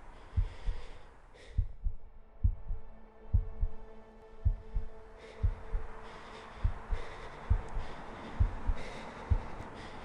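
Heartbeat sound effect: paired low thumps, lub-dub, about once a second, over a steady humming drone and hiss that grows louder.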